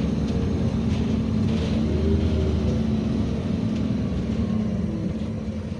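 NEST city bus with its engine running, a steady low rumble with faint tones that glide gently up and down.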